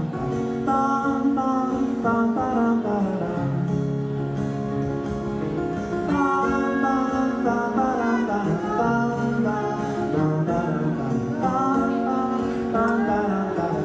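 Live band music: the instrumental opening of a folk-rock song, led by acoustic guitar, with a held, gliding melody line over a walking bass.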